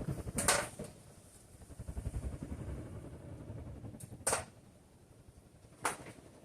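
Modern Fan Company Cirrus ceiling fan with a K55-type motor running on high, its draft buffeting the microphone in uneven low gusts. Three short sharp clicks come about half a second, four seconds and six seconds in.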